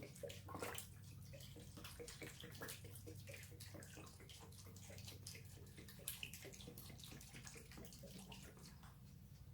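Faint splashing and dripping of mineral spirits as cast-iron vise parts are moved in a soaking pan, with many small quick ticks over a steady low hum.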